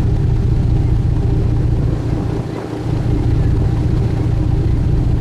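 Sightseeing boat's engine droning steadily, with a brief dip in level about two and a half seconds in.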